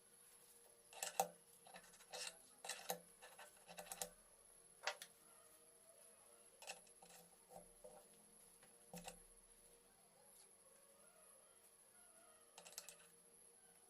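Light metallic clicks and clinks of hand tools and small engine parts being handled during engine reassembly: a quick run of taps in the first few seconds, then scattered ones, and a last short clatter near the end.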